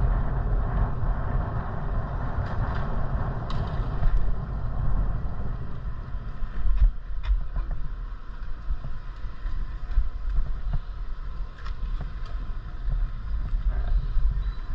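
Wind buffeting the microphone over a low, uneven rumble of travel on the road, with a few small clicks and rattles.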